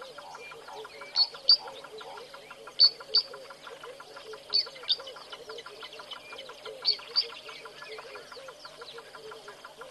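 A bird gives a sharp, high two-note call four times, about every two seconds, over a continuous chorus of frogs calling.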